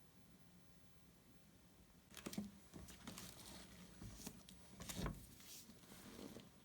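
Faint room tone, then from about two seconds in a run of soft knocks, taps and rustles from objects being handled, with the firmest knocks near the start of the run and about halfway through it.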